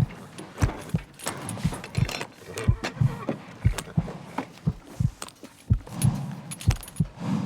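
Horse hoofbeats at a steady walk, about three thuds a second.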